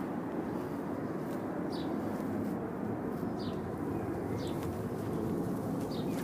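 Steady rushing background noise, with a small bird giving four short, high, falling chirps spaced about a second or more apart.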